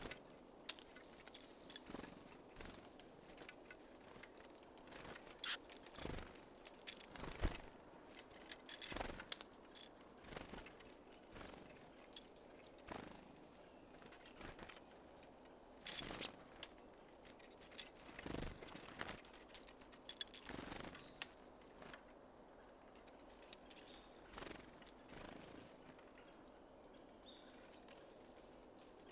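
Small birds at a seed feeder: scattered sharp taps and knocks from pecking and landing, with wing flutters and a few faint high chirps near the end.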